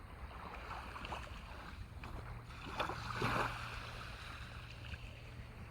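Kayak paddle strokes dipping and splashing in the water over a steady low rumble of wind, with one louder splash about three seconds in.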